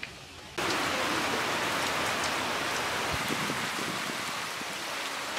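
Rain falling steadily on puddles and wet mud: a dense hiss of many small drop splashes, cutting in abruptly about half a second in.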